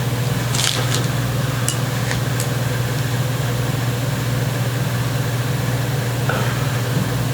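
A steady low hum, with a few light clicks and rustles in the first couple of seconds as small parts and packaging are handled.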